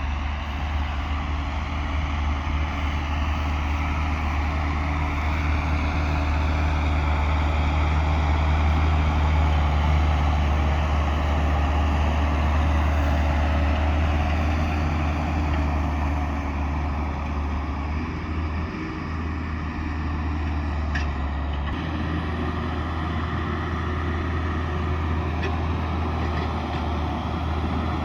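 Tractor engine running steadily under load while pulling a plough, a continuous deep drone that grows a little louder towards the middle and then eases slightly.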